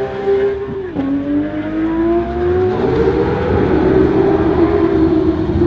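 Porsche 991 GT3 flat-six running through a Kline Inconel exhaust with headers and 100-cell cat pipes, accelerating: the engine note drops sharply about a second in as it shifts up, then climbs and grows louder under load before levelling off.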